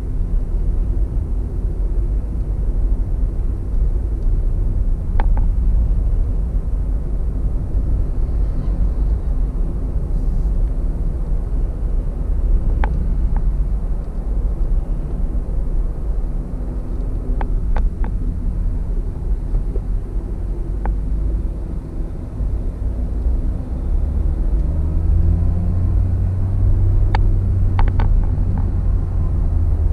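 Car cabin road noise at highway speed: a steady low rumble of tyres and engine, with a few faint clicks, the low hum growing stronger in the last few seconds.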